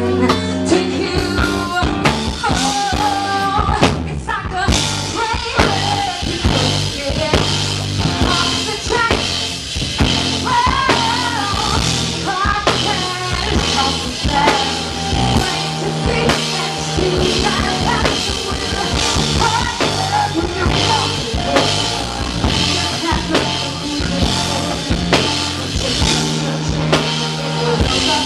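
Live band playing a rock-tinged song: drum kit keeping a steady beat under sung vocals.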